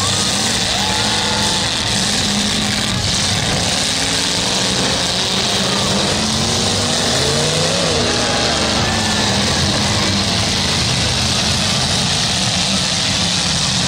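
Several demolition derby cars' engines running at once, revving up and dropping back as the cars manoeuvre and push against each other, over steady crowd noise.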